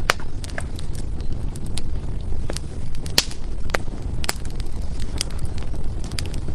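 Wood fire burning, with irregular sharp crackles and pops of the firewood over a steady low rumble of the flames. The loudest pops come just after the start and about three and four seconds in.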